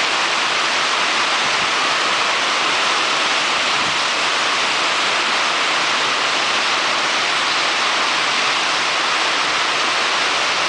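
Strong wind and fast-flowing water making a loud, steady rushing hiss, unbroken throughout.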